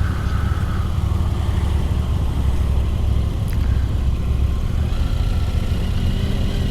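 Motorcycle engine running steadily under a dense low rumble of engine and road noise, as picked up by a camera mounted on the moving bike.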